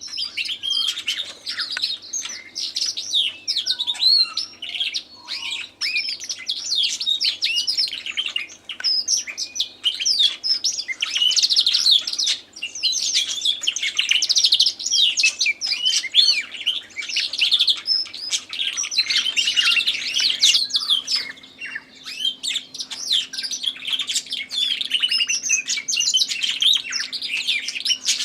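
Domestic canary singing a long, fast, warbling song of rapid trills, with a brief pause about three-quarters of the way through. A tui sings in the background.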